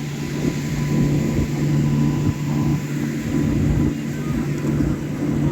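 Train running, heard as a steady low rumble with a constant hum.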